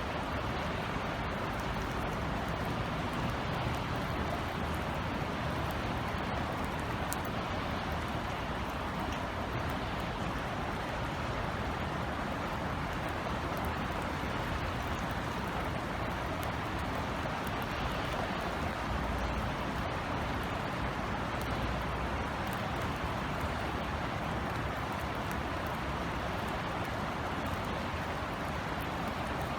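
Steady rain falling, an even continuous hiss with scattered faint drop ticks, over a low rumble.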